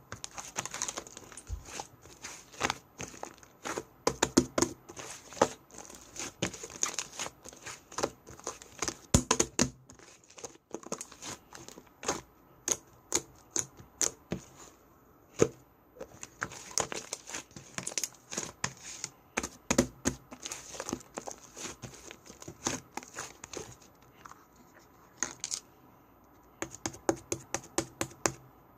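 Slime being squeezed and stretched by hand, giving off many irregular sharp pops and crackling clicks with a few short pauses.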